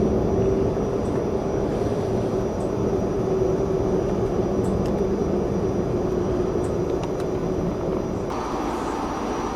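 Excursion train under way: a steady, loud rumble of the moving train with a low drone running through it, its tone shifting slightly about eight seconds in.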